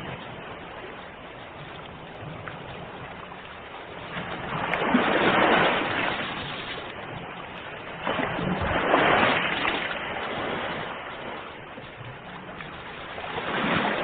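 Ocean waves washing ashore: a steady wash of surf with three waves swelling and falling away, roughly four seconds apart.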